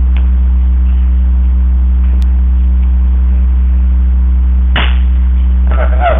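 Loud steady electrical hum, with one sharp crack about five seconds in.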